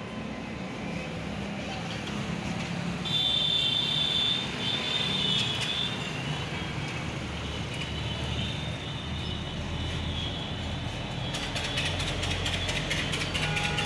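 A vehicle engine running steadily, with a fast, even ticking that comes in over the last few seconds.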